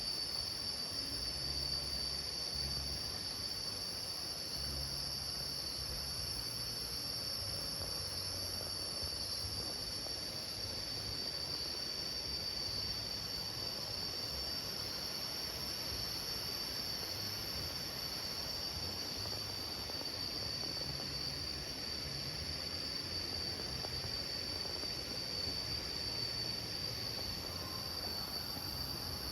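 A steady, unbroken chorus of forest insects, with a shrill buzz in two high pitch bands.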